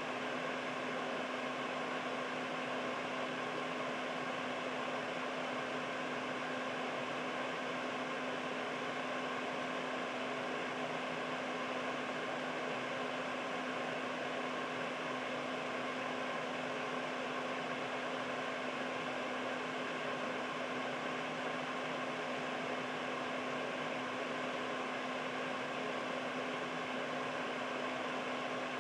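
Air purifier fan running steadily: an even rush of air with a steady low hum under it.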